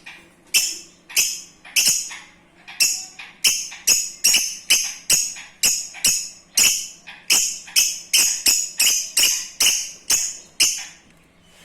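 Lovebirds calling: a run of short, shrill, high-pitched calls repeated about twice a second, stopping just before the end.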